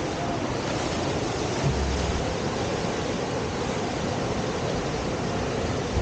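Steady rushing of whitewater from a river standing wave, an even hiss of moving water, with a brief low thump about two seconds in.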